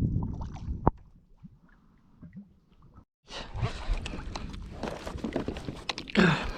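Water sloshing against a kayak hull, with handling knocks and clicks. After a brief break about three seconds in, it gives way to a steady rushing hiss of wind and water on the microphone.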